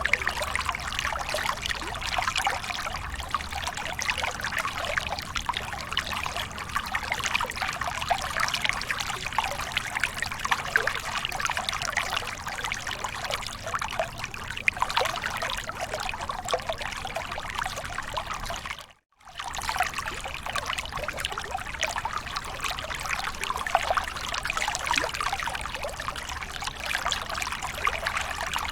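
Small waterfall running steadily, water splashing and trickling with a close, fine spatter. It cuts out completely for a split second about two-thirds of the way through, then carries on.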